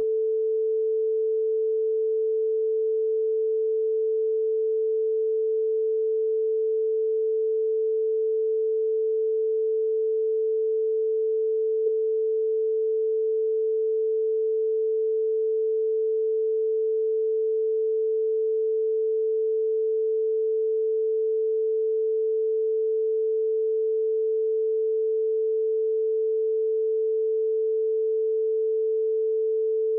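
A steady, unwavering pure electronic tone a little above middle pitch, like a test tone, held without a break, with one tiny click about twelve seconds in.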